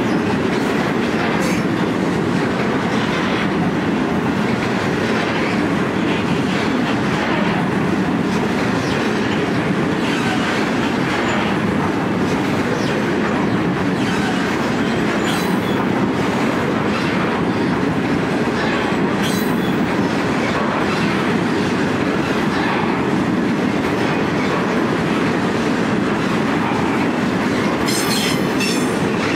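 Loaded grain hopper wagons of a freight train rolling past on steel rails: a steady rumble of wheels on track, broken by a few brief high wheel squeals, one near the end.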